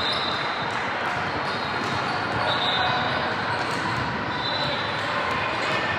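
Basketball game in a gymnasium: a ball bouncing on the court, with steady crowd chatter and hall noise.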